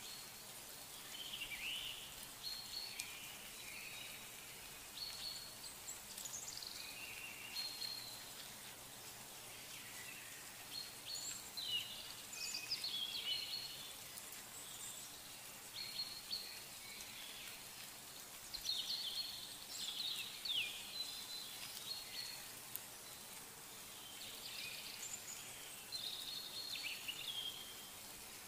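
Birds singing in the background, short varied chirps and warbles coming every second or two, over a faint steady hiss.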